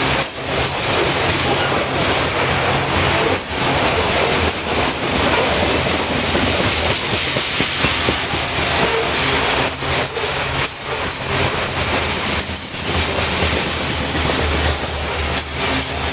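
Freight train of covered hopper cars rolling past at close range: a steady, loud rumble and rattle of steel wheels on the rails.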